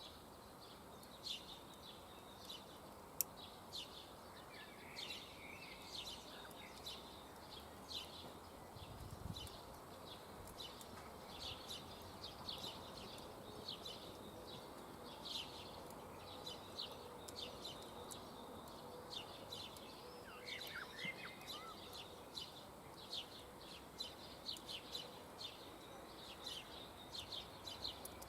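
Small birds chirping over and over, faint: many short high calls through the whole stretch. A single sharp click about three seconds in.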